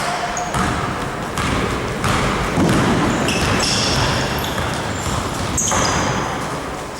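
Game sounds in a large sports hall: a ball thudding on the floor, and shoes squeaking sharply several times on the court, mostly in the middle and later part.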